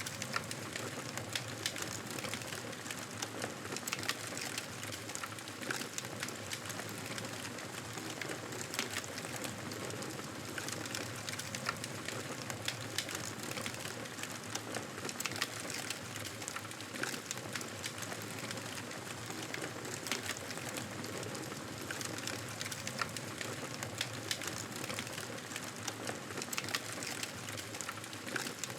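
Wood fire crackling: frequent small pops and snaps over a steady hiss.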